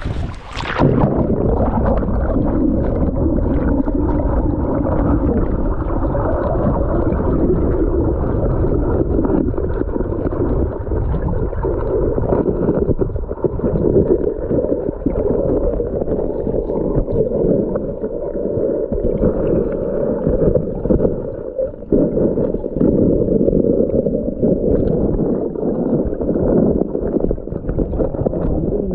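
Loud, muffled churning and rushing of fast-flowing river water, close to the microphone. The brighter high end cuts out about a second in, leaving a dull, steady wash.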